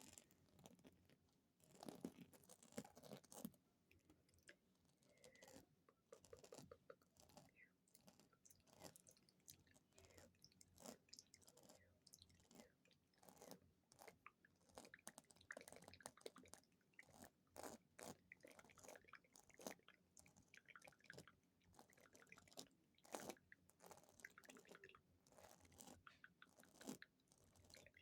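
Very fast tapping on small objects close to the microphone: dense, crisp little clicks and knocks that come in quick irregular flurries.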